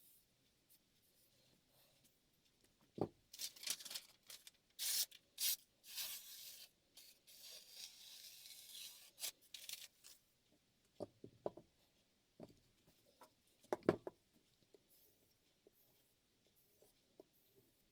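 Steel knife edge scraped in strokes across a wet Shapton M15 #1000 ceramic whetstone, a run of rasping strokes from a few seconds in to about halfway. A knock comes before the strokes, and a few light knocks and clicks follow them.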